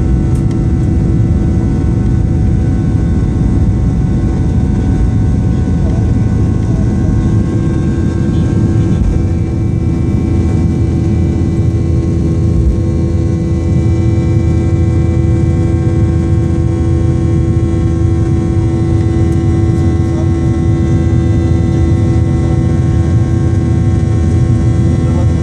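Boeing 737 jet engines running at steady power, a loud even rumble with a constant hum and several steady tones over it.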